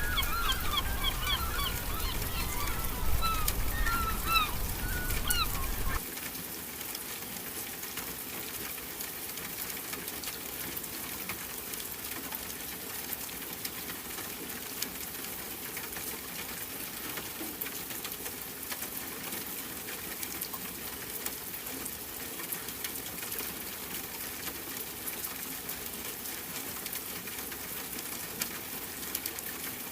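Birds calling rapidly, with short upward and downward squawks, over a low rumble; both cut off suddenly about six seconds in. What remains is a steady, fine crackling hiss.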